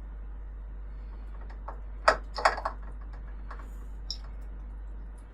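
A few light clicks and taps, the loudest a quick cluster about two seconds in, over a steady low hum.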